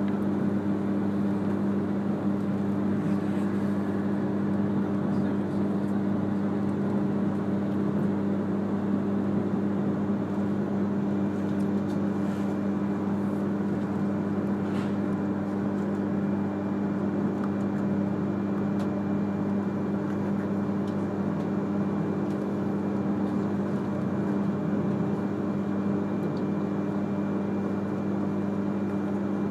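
E3-series Shinkansen train running, heard from inside the passenger cabin: a steady rumble with a constant low hum.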